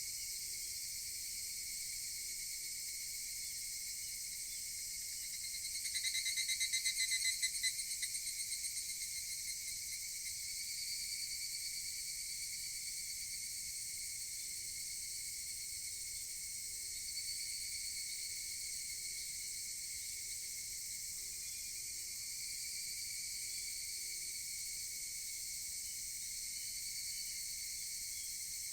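Higurashi (evening cicada) calling: one louder call of rapid, evenly repeated pulses begins about six seconds in, lasts about three seconds and fades. A steady, high-pitched chorus of insects runs underneath throughout.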